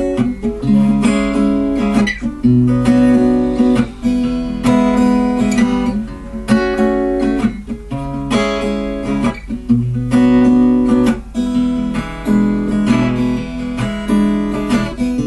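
Acoustic guitar strummed in a steady rhythm, with the chords changing every second or two: an instrumental passage between the verses of a song.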